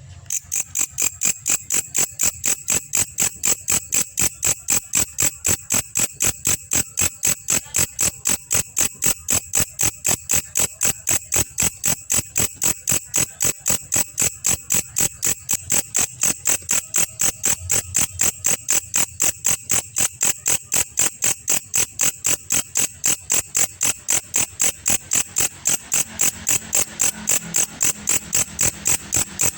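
Belalang kecek insect calling: loud, sharp, high-pitched ticks repeated very evenly, about three a second.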